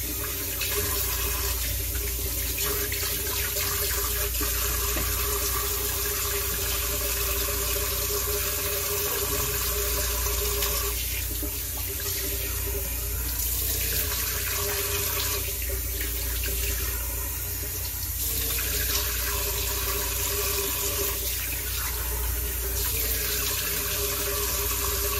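Warm water running steadily from a tap into a sink, with several stretches of splashing as it is scooped onto the face to rinse it.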